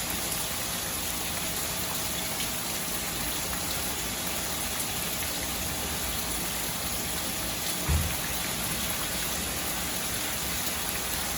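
Steady rain, an even hiss throughout, with one brief low thump about eight seconds in.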